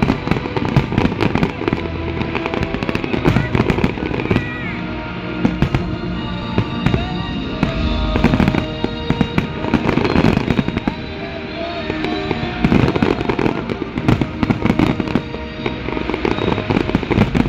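Aerial fireworks display: shells bursting in a dense, continuous barrage of bangs and crackles, with music playing underneath.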